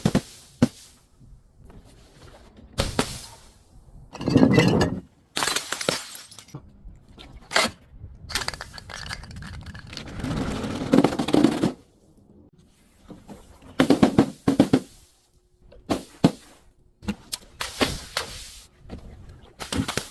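Glass and crunchy objects being crushed and broken: an irregular series of sharp cracks and crunching bursts, the longest lasting about a second and a half, with short pauses between them.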